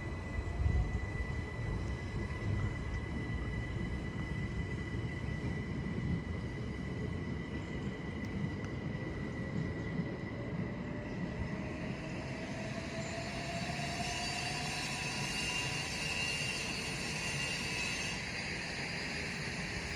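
Southeastern electric multiple-unit train running through the station, a steady rumble with a whine that rises in pitch through the middle as it gathers speed, and a hiss building in the later part.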